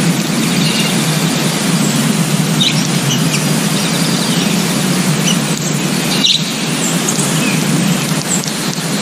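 Many birds calling together: a dense, steady chatter of squeals with short, high chirps scattered through it.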